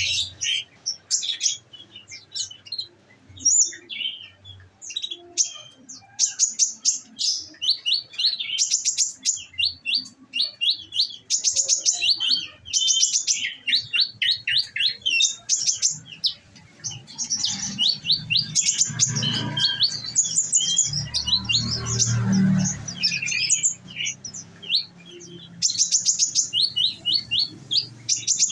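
Olive-backed sunbird (konin) singing without pause: quick high chirps and fast rattling trills, the rapid 'shooting' phrases that keepers prize. A low rumble sits under the song in the middle of the stretch.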